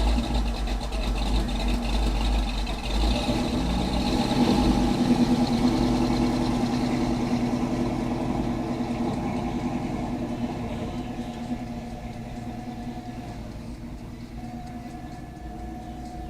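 A car engine running close by with a deep low rumble, loudest about five seconds in, then slowly fading as it moves off.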